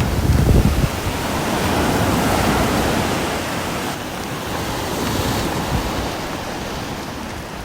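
Steady rain, an even hiss with a low rumble that is stronger in the first second and then eases.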